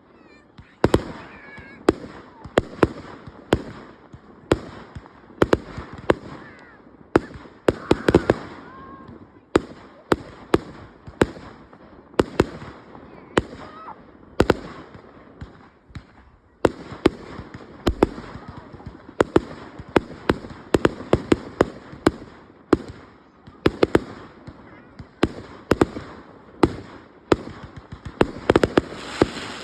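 Fireworks display: shells bursting in a steady run of sharp loud bangs, often several a second, over a crackling haze. The barrage pauses briefly about halfway through, then picks up again, thickest near the end.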